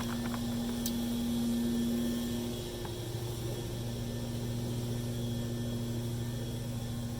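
A steady low hum with an even set of tones, from a running machine or mains-powered device, with a couple of light clicks in the first second.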